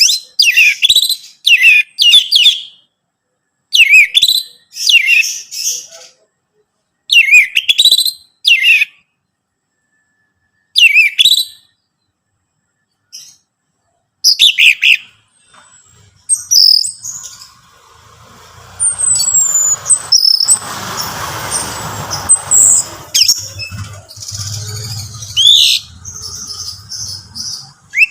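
Orange-headed thrush singing in short, loud phrases of sliding notes, repeated every few seconds. About halfway through, the song comes faster and busier over a low hum, with a short rush of noise in the middle of that stretch.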